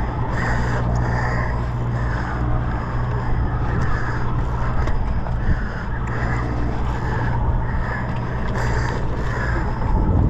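Sportfishing boat's diesel engine droning steadily under wind and water noise.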